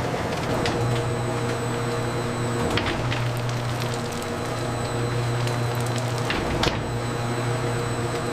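Steady factory machinery hum. A low drone comes and goes every second or two, with a few faint clicks.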